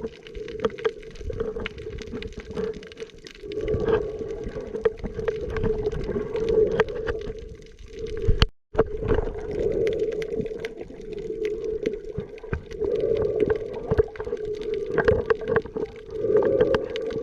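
Muffled underwater sound picked up by a camera in a waterproof housing while snorkeling: a steady hum that swells and fades, with water sloshing and many sharp clicks and taps. It cuts out briefly about halfway through.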